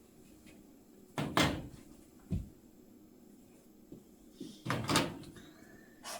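A few sharp knocks and clattering handling noises, like a cupboard door or lid being moved: a loud cluster about a second in, a dull thud a moment later, another loud cluster about five seconds in, and a short knock at the end.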